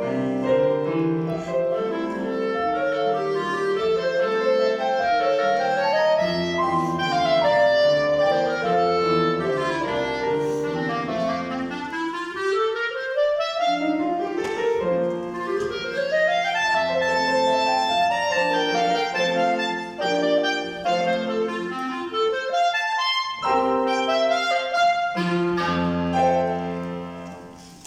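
A wind instrument plays a melodic classical piece with piano accompaniment. The accompaniment has rising runs around the middle, and the piece closes on a final chord that dies away near the end.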